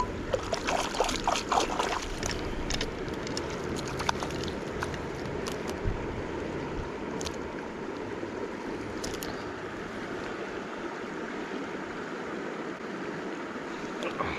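Steady rush of a flowing river, with a few small clicks and knocks in the first couple of seconds and now and then after.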